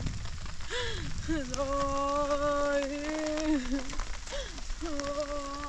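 Steady rain falling. A person's voice sounds over it in long held notes, each starting with a short swoop in pitch, twice.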